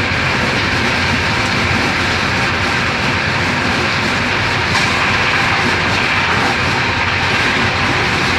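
A UIC-Z1 passenger coach running at speed, heard from inside the coach: a loud, steady rumble and rush of wheels on rails.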